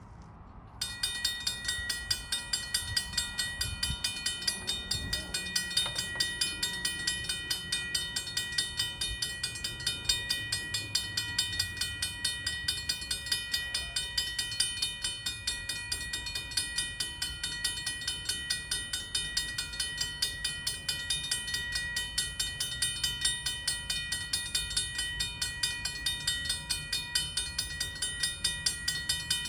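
Railroad grade-crossing warning bell starting up about a second in and ringing steadily in rapid, even strokes, over a low rumble.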